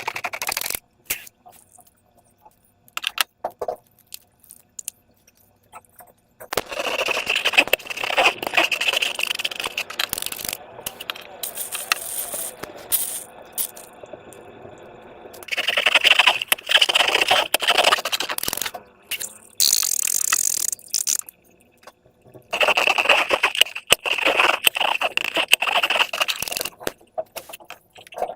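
Slime and balloons being handled: several bouts of crackly, scraping noise a few seconds long, with quieter gaps of scattered clicks between them.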